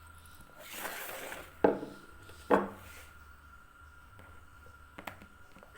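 Household handling sounds: a short rustle, then two sharp knocks with a brief ring, about a second apart, as of hard objects being set down, and a faint click near the end.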